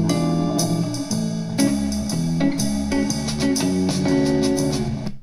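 Guitar and bass music played back through small desktop PC speakers connected to a laptop, with the Windows audio 'Enhancement' setting on; the music cuts off suddenly at the end.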